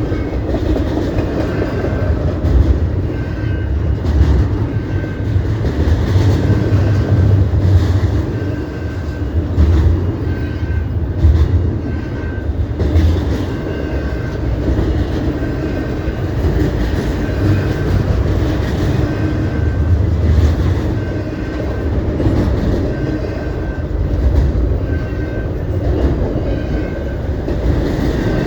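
A CP Rail train rolling past, its wheels clacking over the rail joints in a steady heavy rumble. A short high tone repeats about once a second throughout.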